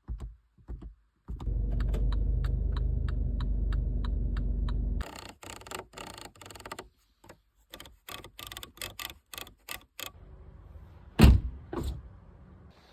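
A MINI Cooper F56's electric motor runs steadily for about three and a half seconds with a light ticking about three times a second over it, then stops. A run of sharp clicks and knocks from the car's mechanisms follows, and one loud thunk comes about eleven seconds in.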